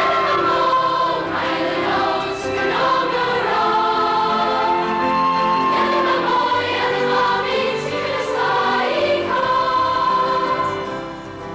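Choral music with voices holding long, sustained notes.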